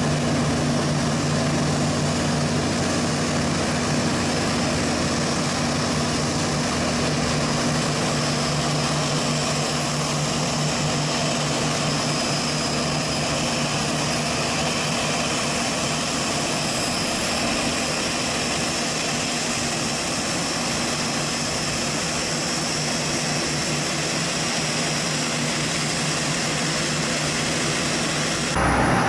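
Jet engines of the arriving Boeing 787-10 airliner running steadily, a wide even noise with a low hum that weakens after about seven seconds. The sound changes abruptly just before the end.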